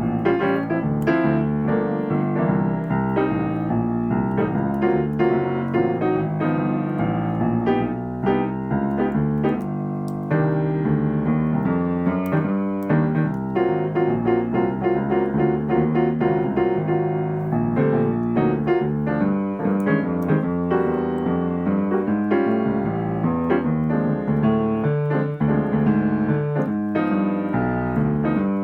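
Solo piano playing jazz accompaniment (comping) rhythm patterns: chords struck in a continuous rhythmic practice run.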